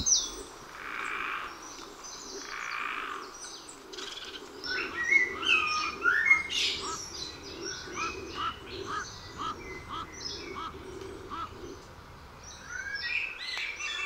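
Several birds chirping and calling, with a run of short falling notes about twice a second in the middle and higher chirps over it. Two short separate calls come in the first few seconds.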